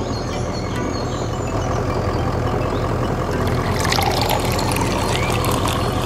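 A small motor running steadily under a wash of noise, with short bird-like chirps above it.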